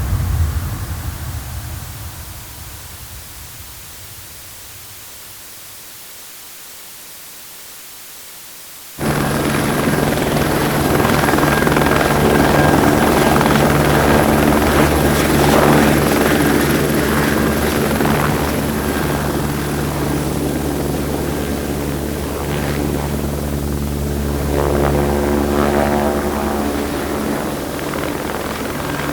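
A jet aircraft's noise fades away over the first few seconds. About nine seconds in a helicopter sets in abruptly: the steady low beat of the rotor with a thin high turbine whine above it, running evenly.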